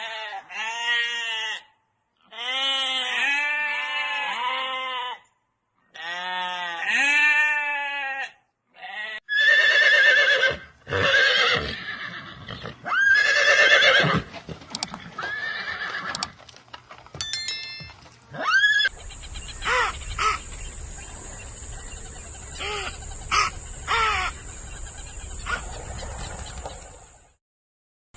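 A string of animal calls from several short clips in turn. First come three bursts of quick, repeated rising-and-falling calls, then other pitched calls, and then a noisier stretch with a few short cries.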